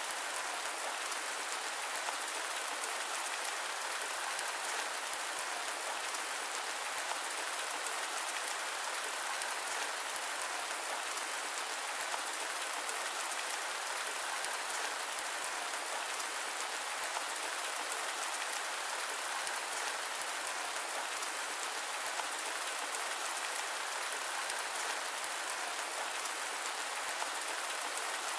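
Steady rain falling, a dense even patter of drops with no thunder and no deep rumble.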